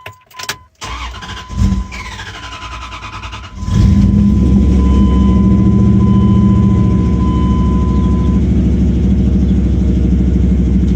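2002 Dodge Durango engine cranked over by its starter for about three seconds, then catching suddenly and running steadily and loud. The crank-no-start trouble behind it was traced to a worn-out battery.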